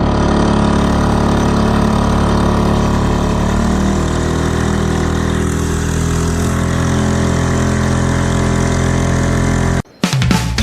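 Honda 2 hp four-stroke outboard motor running at a steady speed. It cuts off abruptly about half a second before the end, and music starts.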